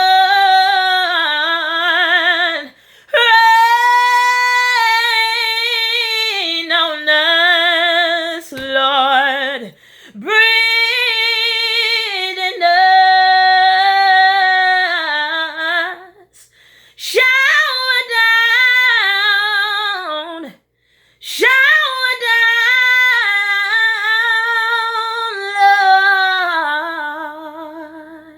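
A woman singing a gospel song unaccompanied, holding long, wavering notes in several phrases separated by short breaths.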